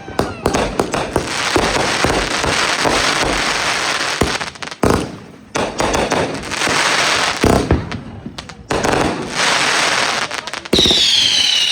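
Consumer fireworks going off in quick succession: dense crackling and popping with sharp bangs. Near the end, several shrill whistles fall slightly in pitch.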